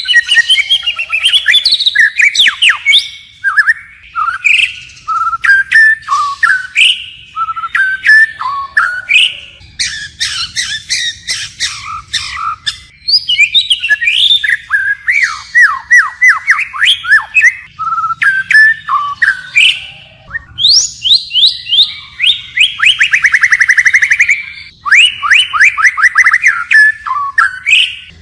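White-rumped shama singing, continually switching phrases: clear whistles, quick down-slurred notes and slurred trills, with a fast buzzy trill about three-quarters of the way through.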